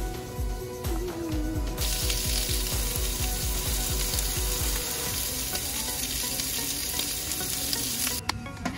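Food sizzling in a hot frying pan, an even hiss that starts about two seconds in and cuts off suddenly near the end, over background music with a steady beat.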